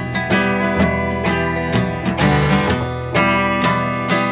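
Acoustic guitar strumming chords in a steady rhythm, about two strokes a second, as an instrumental passage of a rock-and-roll song.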